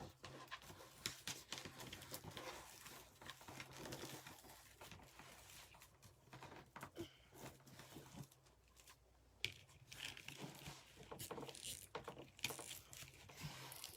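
Faint rustling and crinkling of deco mesh being handled and worked onto a wreath frame, with scattered small clicks and scrapes.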